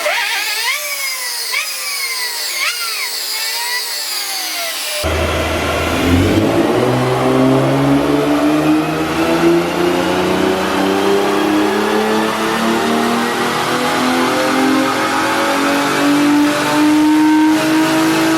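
Car engine on a chassis dyno. It first revs up and down quickly several times with a thin sound, then from about five seconds in makes a long wide-open-throttle pull, its pitch climbing steadily through one gear.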